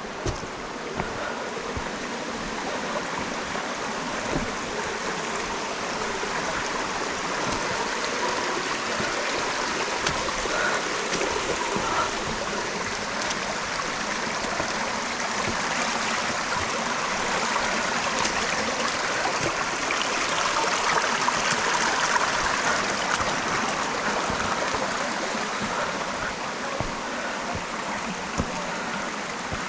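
Rocky stream rushing and splashing over rocks, a steady water noise that swells a little past the middle, with a few sharp clicks near the start.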